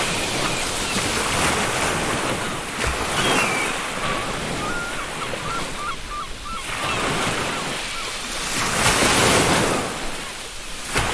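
Ocean surf breaking on a beach in rolling swells, loudest near the end, with a short run of gull calls about three seconds in.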